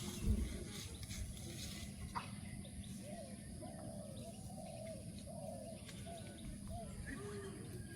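A bird calling a run of short, arched notes, starting about three seconds in, over a low background rumble.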